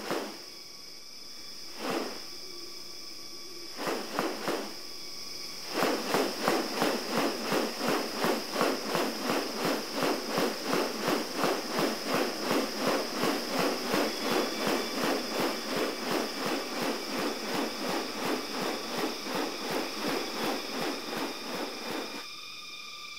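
Rainforest wildlife sounds: a steady high insect drone, with a few brief sharp sounds in the first five seconds. About six seconds in, a fast pulsing rattle starts, about two to three beats a second, and runs for some sixteen seconds.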